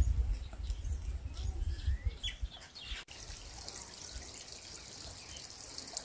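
Outdoor ambience: scattered bird chirps, one a short rising note, over a low rumble. About halfway through it changes abruptly to a steady high hiss with fewer chirps.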